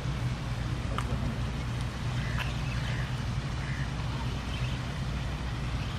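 Steady low mechanical hum, like a running motor, with a couple of faint clicks and faint distant voices.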